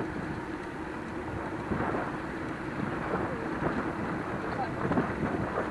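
Wind buffeting the microphone of a moving bike-mounted or handheld camera: a steady, rumbling rush of wind noise.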